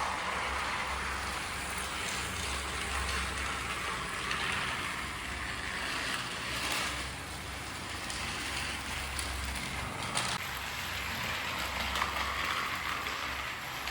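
Battery-powered motorized Thomas & Friends toy train running along plastic track: a steady whirring rattle with a low hum, and a sharp click about ten seconds in.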